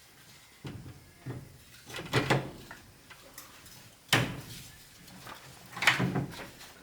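A handful of irregular knocks and clatters, about five, spaced a second or two apart, with the loudest three about two seconds in, about four seconds in and near the end.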